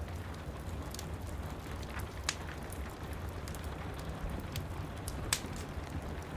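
Wood fire crackling, with scattered sharp pops, the loudest about two seconds and five seconds in, over a steady low rumble of rain.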